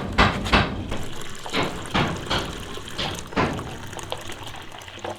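Water splashing in a series of short strokes, quick at first and then more spaced and fainter.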